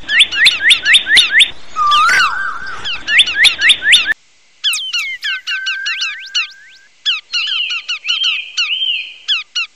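Rapid bird chirping, about five quick chirps a second, broken by a short gap about four seconds in, with a longer trilling call near the end.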